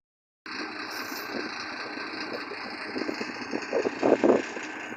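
Vehicle engine running steadily at idle, starting about half a second in, with a few louder bursts near the end.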